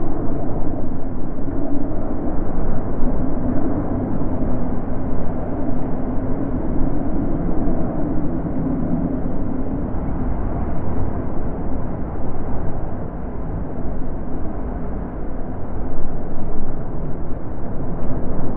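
Natural wind blowing: a deep, steady rushing that swells and eases in slow gusts, rising again about two-thirds of the way through.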